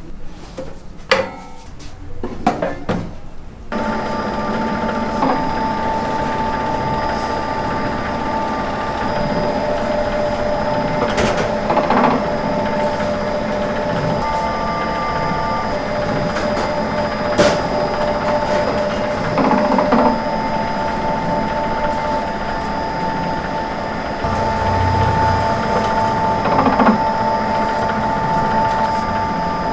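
A steady machine hum made of several fixed tones, starting about four seconds in after a few clicks, with occasional knocks.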